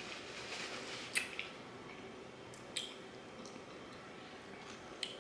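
Close-up eating of crispy fried chicken: crackly chewing with a few sharp crunches, the loudest about a second in.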